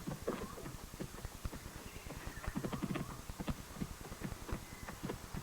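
Cattle moving about on hard ground, their hooves knocking irregularly several times a second.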